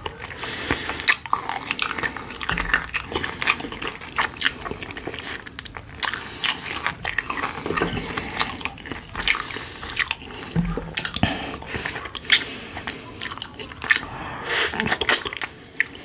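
A person chewing and biting food close to the microphone, with a steady run of crisp crunches and clicks throughout.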